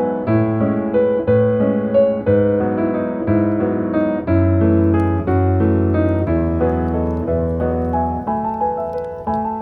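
Background piano music: a slow melody over sustained bass notes, each note struck and fading.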